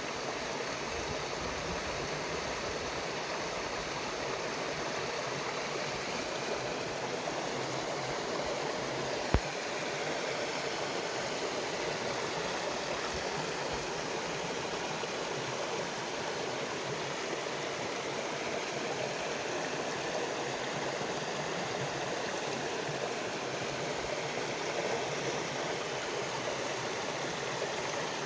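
A mountain stream flowing, a steady rushing of water. One sharp click about nine seconds in.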